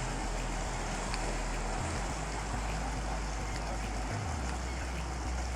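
Steady rushing noise of wind and water with an uneven low rumble.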